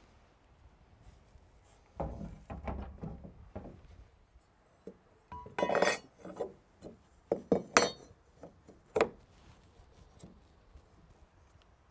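Hard objects being handled: irregular clattering, knocking and clinking in two spells, the first about two seconds in and the second in the middle, with a single knock about a second after the second spell.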